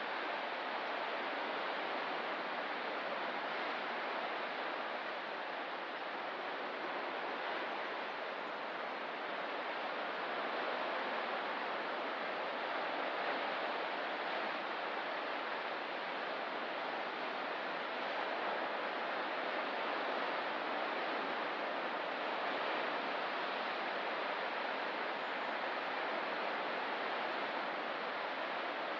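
Ocean surf washing steadily, an even hiss of breaking waves with slight slow swells in level.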